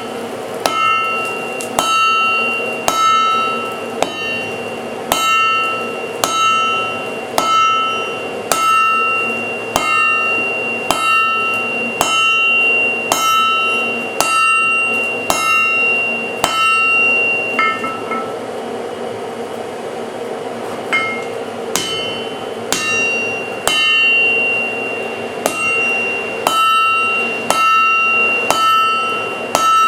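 Forging hammer striking steel on an anvil in a steady series, roughly one to two blows a second, the anvil ringing between blows; the hammering pauses for a few seconds just past the middle.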